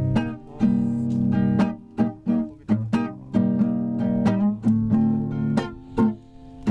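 Acoustic guitar strummed in a steady rhythm, about two to three chord strokes a second, with no singing.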